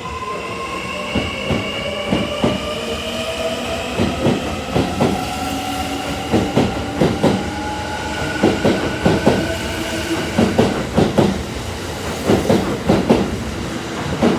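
Kintetsu 80000-series Hinotori limited express electric train accelerating past. The traction inverter and motors give a whine that rises slowly in pitch over the first several seconds. The wheels clack over the rail joints, the clacks coming faster and faster as it gathers speed.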